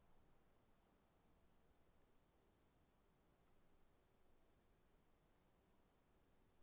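Near silence, with faint, regular high chirping of insects, about three chirps a second, over a steady thin high whine.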